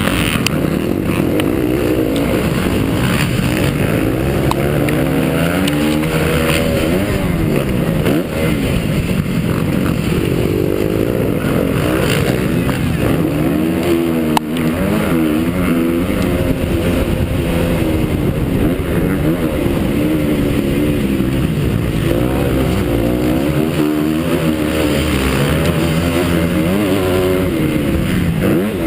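Honda CRF250F four-stroke motocross bike engine revving hard and dropping off again and again, the pitch rising and falling with throttle and gear changes as it is ridden round the track, with wind on the microphone.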